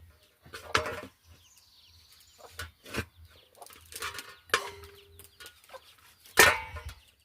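Domestic hen squawking in a series of short, loud cries, the loudest about six seconds in, as it is being killed for the pot.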